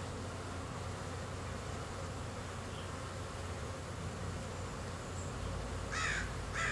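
Honey bees buzzing at the hive entrance, a steady drone of many wings. Near the end, two short high chirps cut through the buzz.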